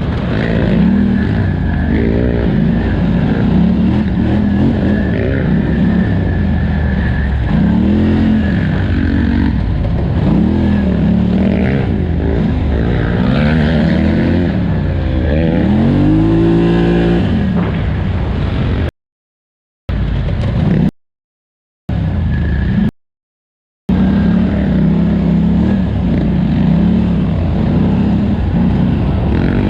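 2018 Polaris Scrambler 1000XP's twin-cylinder engine under hard riding, revs rising and falling over and over as the throttle is worked. About two-thirds of the way through, the sound cuts out completely three times for about a second each.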